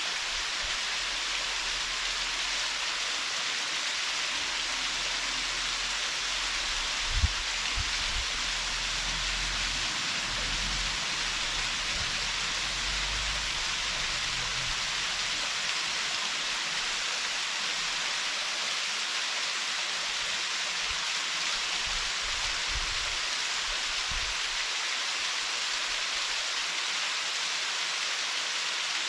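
Waterfall pouring steadily into its plunge pool, an even rushing hiss, with a single brief low thump about seven seconds in.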